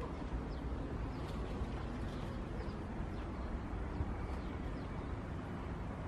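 Outdoor ambience: a steady low rumble under faint, short, falling high-pitched chirps of small birds, about one a second.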